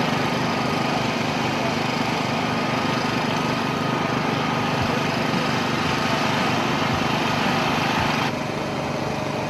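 Race car engines idling steadily, dropping a little in level and changing in tone about eight seconds in.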